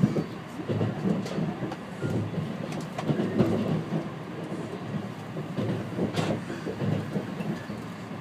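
E653-series electric train running at speed, heard from inside the passenger cabin: a continuous uneven rumble of wheels on rail, with a few sharp clacks.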